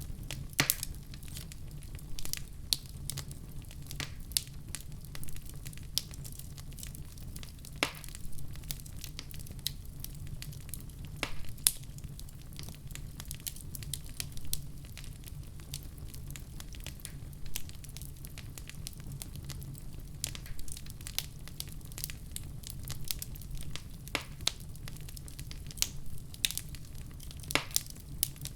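Wood fire in a fireplace burning, with a steady low rumble and many irregular sharp crackles and pops, a few of them loud.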